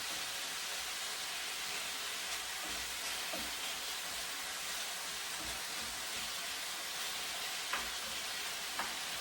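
Chicken thighs and carrot frying in oil in a pan, a steady sizzle, with a few short clicks near the end.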